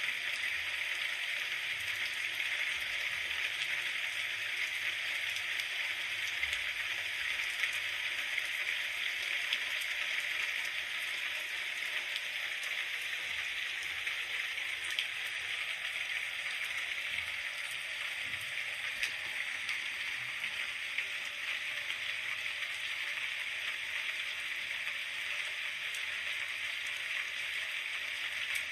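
Steady rain falling, an even hiss of many fine drops with a scattering of small ticks and no change in intensity.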